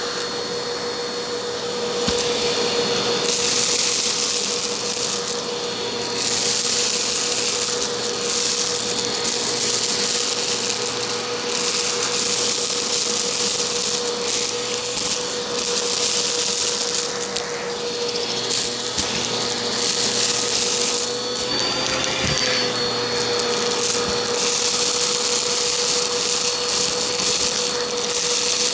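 Bissell vacuum cleaner running, with a steady motor hum under a loud rush of airflow. The hiss swells and eases every few seconds, and the pitch lifts briefly about three quarters of the way through.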